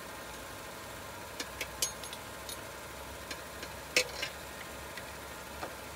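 Chevrolet Trax engine idling steadily in Park, warmed up for an automatic transmission fluid level check, with a few sharp metallic clicks about a second and a half in and a louder one near four seconds as a ring spanner is fitted to the transmission's oil level plug.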